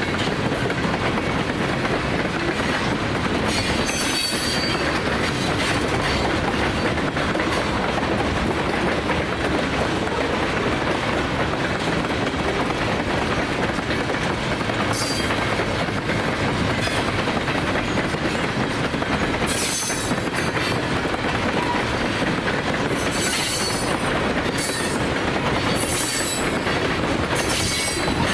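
Freight cars of a passing train rolling by, with wheels clacking over the rail joints and a constant rumble. Short high-pitched wheel squeals come several times, about four seconds in, around the middle, and repeatedly near the end.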